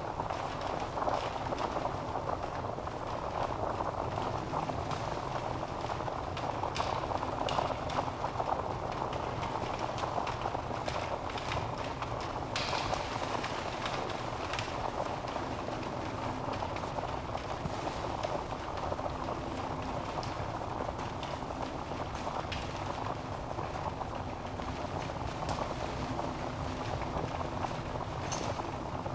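Wood fire burning in a fireplace: a steady rushing hiss of flames with frequent irregular crackles and pops from the logs.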